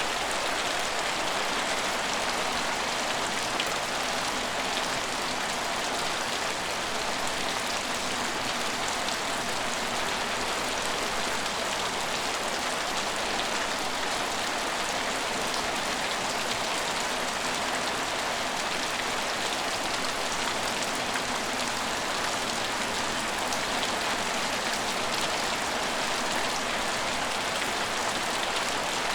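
Steady rain falling and pattering on hard surfaces, an even hiss of many small drop impacts with no let-up.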